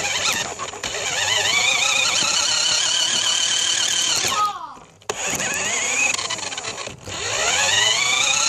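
An RC car's motor whining as it speeds up: the pitch rises and holds, cuts out about four and a half seconds in, then rises again twice in quick run-ups.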